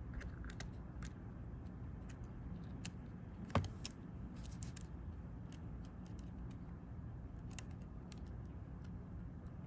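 Scattered small clicks and taps of hand tools handling the tiny parts of an opened smartphone during a power-button repair, with one sharper click about three and a half seconds in, over a steady low hum.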